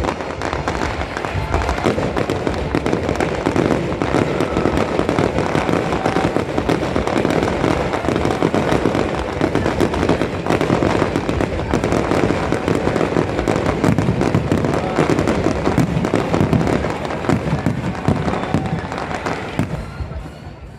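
Fireworks display at full intensity: many shells bursting in quick succession, a continuous dense barrage of bangs and crackling that fades away near the end.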